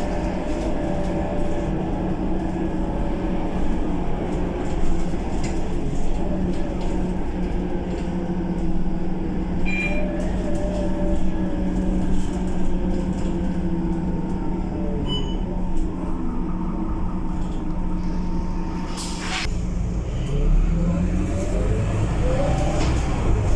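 Scania K230UB bus diesel engine running with a steady drone for most of the time. A sharp click comes near the end, then the engine note rises as the bus pulls away and accelerates.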